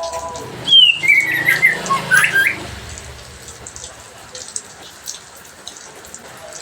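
A bird's loud whistled phrase of several notes, the first sliding down in pitch, starting about a second in and lasting under two seconds. After it come only faint scattered clicks.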